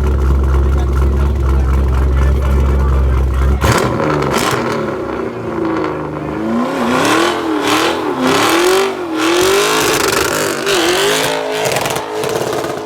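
Car engine with a deep, steady rumble, then, about three and a half seconds in, a sudden change to an engine revving hard, its pitch climbing and dropping again and again.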